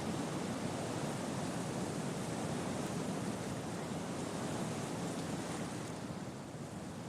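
Wind rustling through tree leaves, a steady rushing noise that eases slightly near the end.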